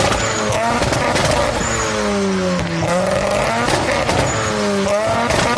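Sports car engine revving loudly through its exhaust, the pitch climbing and falling several times.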